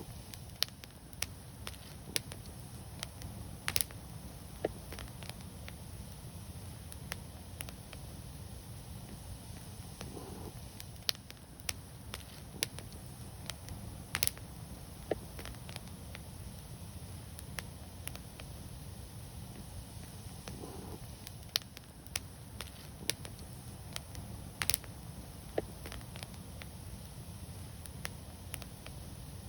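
Wood fire burning: a steady low-pitched noise of the flames under irregular sharp crackles and pops, with three louder snaps spread about ten seconds apart.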